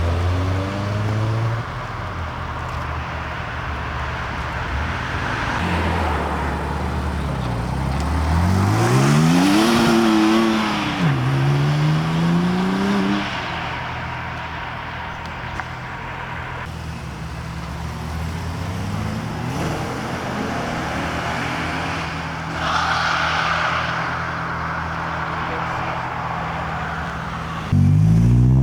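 Car engines idling, with one car pulling away about eight seconds in: its engine note climbs, drops at a gear change and climbs again. Near the end another car's engine revs up sharply and loudly.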